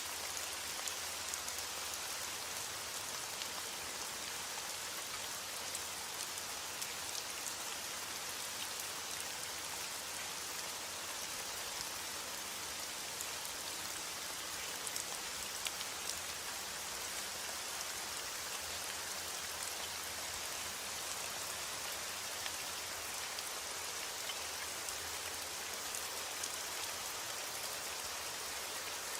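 Steady heavy rain falling, an even hiss with scattered drop ticks on a surface.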